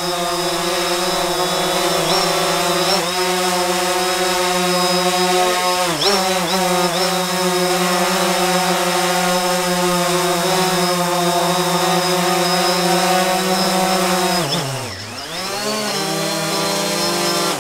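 DJI Phantom 4 Pro quadcopter hovering, its propellers giving a steady multi-tone hum with a few brief dips in pitch. About fifteen seconds in, the pitch drops deeply and climbs back. The hum cuts off suddenly at the end.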